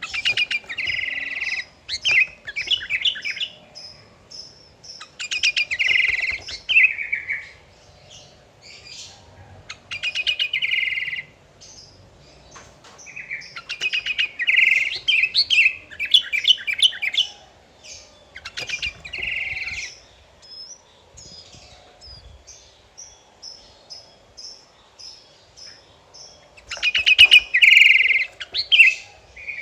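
Sooty-headed bulbul (kutilang) singing: loud, bubbly phrases of rapid chattering notes that come every few seconds. Between them come short high chips, about two a second, heard most clearly in the long gap before the last phrase near the end.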